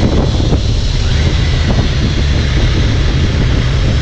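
Motorcycle riding at speed, its engine running under loud, steady wind buffeting on the microphone.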